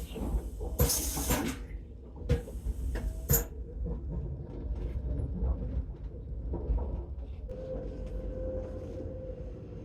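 Passenger train running, a steady low rumble inside the carriage, with several sharp knocks and clunks in the first few seconds. A steady hum joins about seven and a half seconds in.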